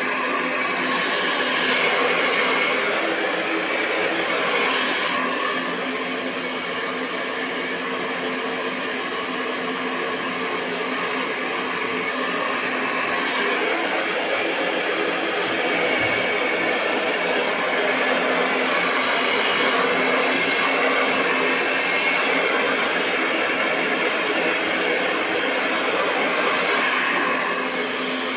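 Hair dryer running continuously: a steady rush of blown air over a constant motor hum, swelling and easing slightly every few seconds.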